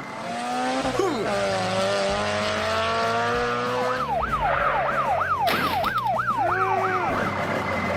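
Tyre screech lasting about three seconds, sliding slowly down in pitch. About four seconds in, a police siren starts, wailing up and down fast in short yelps, about three a second, for about three seconds.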